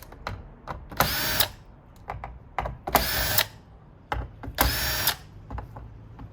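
Power screwdriver whirring in three short runs of about half a second each, backing out screws from an iMac's internal frame. Small clicks and taps come between the runs.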